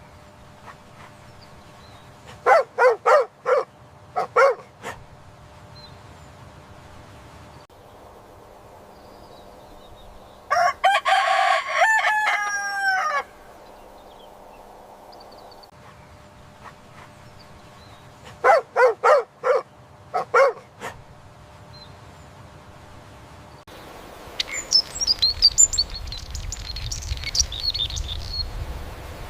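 Chicken calls: a few quick clucking notes in short runs, and a rooster crowing once, one long call that falls in pitch at the end. Near the end, small birds chirping over a low rumble.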